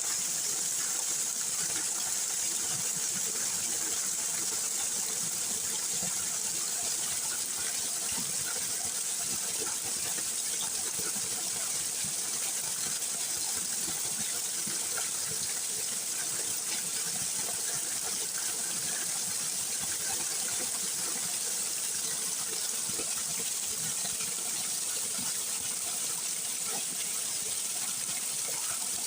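Stream water pouring over rocks in a small waterfall, a steady rushing hiss that does not change.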